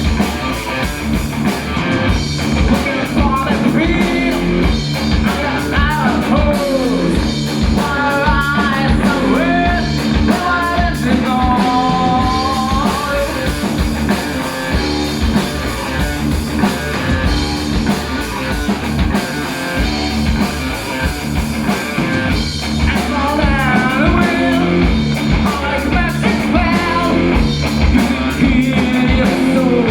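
Heavy metal band playing live at full volume: distorted electric guitars, bass and drums, with pitched lead lines bending and holding over the riff.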